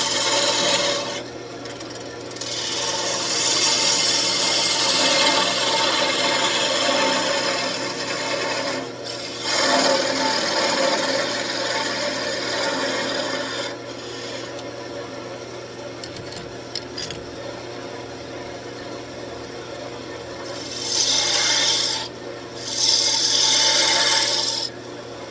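Wood lathe running with a steady motor hum while the spinning wood is worked, a rough scraping that stops briefly a few times.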